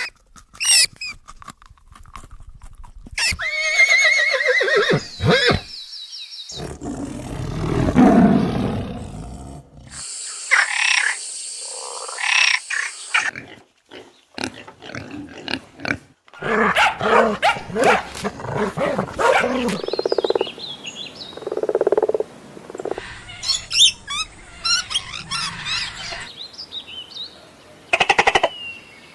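A quick succession of different animal calls, cut one after another every few seconds, several of them loud pitched cries and roars.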